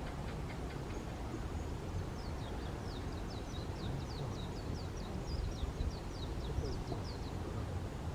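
A bird calling a fast run of short, high, downward chirps, about four a second, for several seconds, over a steady low rumble.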